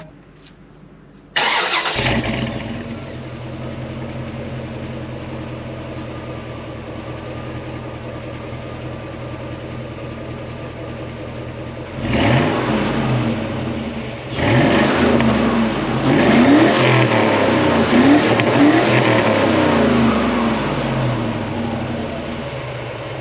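A 2005 Chevrolet Suburban 2500's 8.1-litre big-block V8 starting about a second in and settling to a steady idle through its exhaust. It is then revved, a couple of short blips about halfway through followed by a run of revs, before dropping back to idle near the end.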